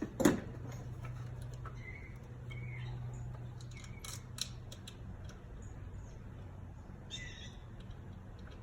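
A single sharp knock of a tool against metal just after the start, then a few faint clicks and short high chirps over a steady low hum.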